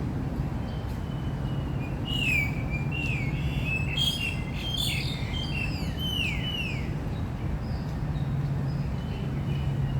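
Birds chirping: a run of quick, falling whistled notes from several calls overlapping, starting about two seconds in and dying away after about seven seconds. Under them runs a steady low rumble of distant traffic.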